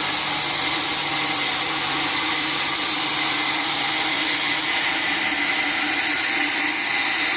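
Sawmill machinery running steadily, a constant hiss with a steady whine and no strikes or changes in speed.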